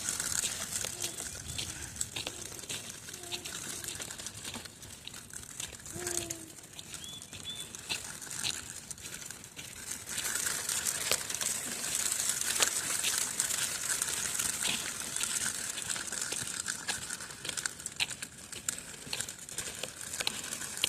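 Walking over icy ground: a steady crunching and crackling with many small sharp clicks, a little louder from about halfway through.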